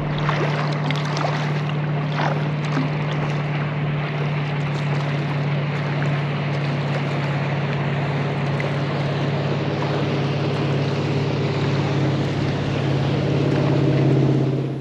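Wind rushing over the microphone and water splashing around a kayak, under a steady low hum.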